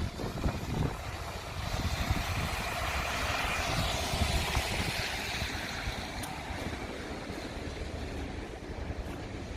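Wet-weather street noise: wind buffets the microphone with low rumbling gusts, and a broad hiss swells and fades over a few seconds, like traffic passing on a wet road.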